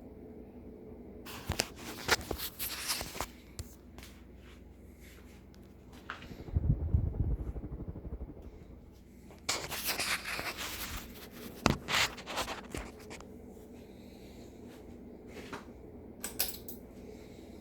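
Ceiling fan motor running with a steady hum. It is broken by a few bursts of rustling and clicks, and a short low rumble partway through.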